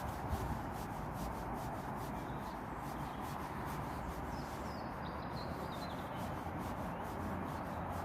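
Northern Ireland Railways Class 3000 diesel multiple unit moving slowly through the station and starting to pick up speed: a steady rush of engine and wheel noise.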